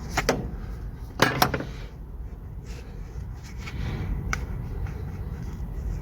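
A few sharp clicks and knocks of tools and engine parts being handled: two close together at the start, a pair about a second in and one more near the middle, over a low steady rumble.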